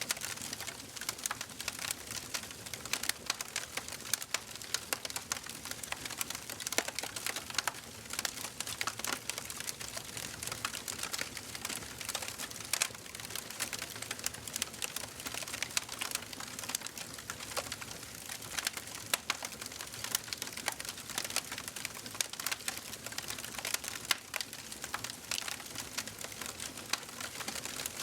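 Wood fire crackling in a fireplace: a dense, irregular run of small sharp pops and snaps over a soft hiss, even throughout.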